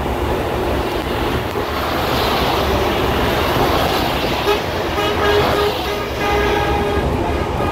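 Steady rumble of a moving train, with a horn sounding in a string of short toots from about four and a half seconds in.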